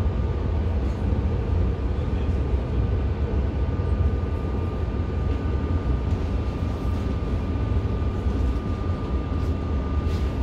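Interior noise of a commuter train carriage on the move: a steady low rumble with a thin, constant whine above it.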